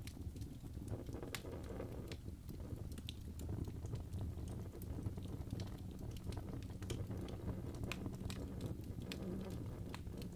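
Fireplace crackling: a steady low rumble of burning logs with scattered, irregular sharp snaps and pops.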